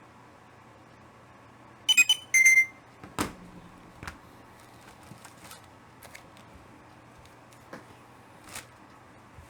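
Two short, sharp high-pitched bursts about two seconds in, then a thump, followed by faint scattered clicks and rustles of comic books being handled.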